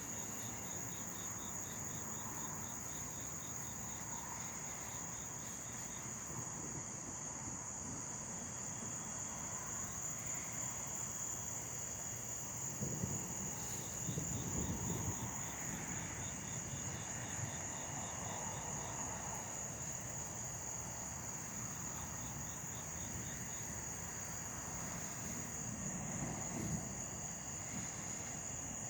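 Night insects chorusing outdoors: a steady, continuous high trill with a faster pulsing trill beneath it. Low, soft rumbles come up briefly about halfway through and again near the end.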